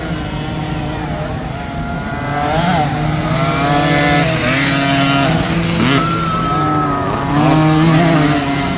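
Several small youth dirt bike engines revving up and down together, their pitches overlapping and shifting as they rise and fall.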